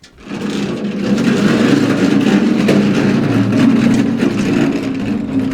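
Kioti compact tractor's diesel engine running steadily under throttle, setting in sharply just after the start.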